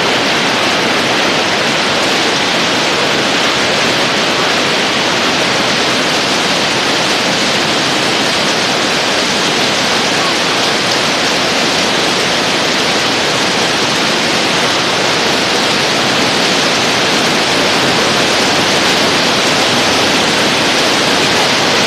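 Hail and heavy rain pelting down, a dense, steady hiss of hailstones and water hitting surfaces.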